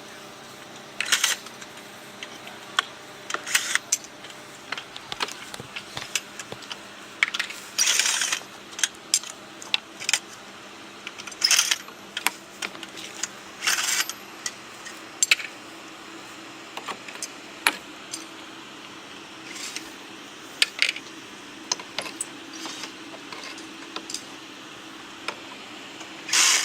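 Irregular sharp metallic clinks and short clatters, a second or two apart, with a steady low hum underneath.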